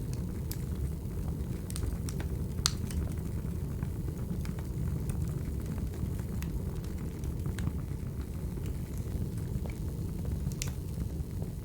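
Wood fire burning: a steady low rumble with scattered sharp crackles and pops, the sharpest about three seconds in and another near the end.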